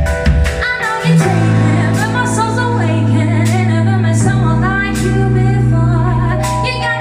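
Live band music: a woman singing a melody over guitar, held bass notes and drum hits.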